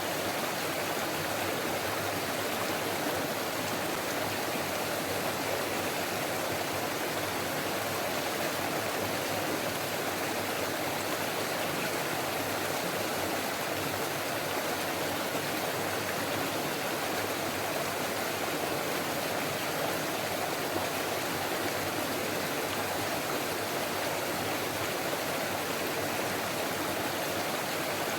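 Forest stream flowing steadily, its water babbling in an even, unbroken rush.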